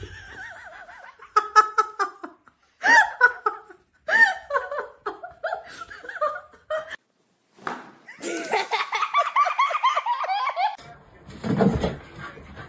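A person laughing in repeated high-pitched bursts, breaking into a long fit of rapid laughter about two-thirds of the way through.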